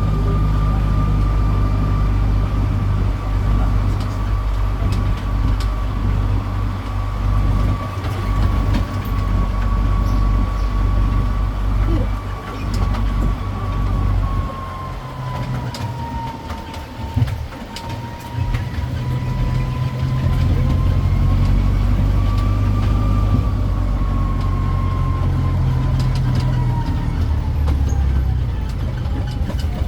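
Tourist road train's engine running with a heavy low hum and a steady high whine on top; the hum eases off about halfway through, then picks up again.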